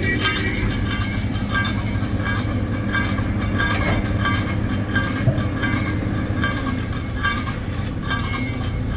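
Tracked asphalt paver (XCMG RP903) running steadily with a low diesel hum and a regular metallic clatter about two to three times a second.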